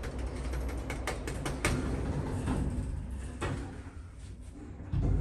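Lift door mechanism on an Orona Arca I passenger lift clicking and rattling as the doors work, over a steady low hum. A heavy low thump comes near the end.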